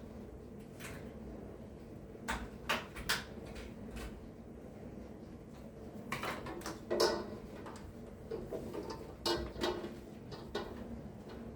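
Scattered clicks and knocks of household items being handled and set down while tidying, in small clusters, over a steady low hum.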